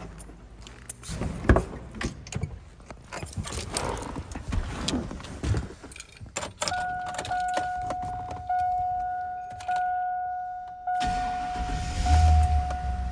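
Keys jangling and clicking, then a steady chime tone with short breaks for about four seconds while the ignition is on, before the cold 1999 Chevrolet Silverado 2500's engine cranks and starts with a low rumble near the end, getting louder as it catches.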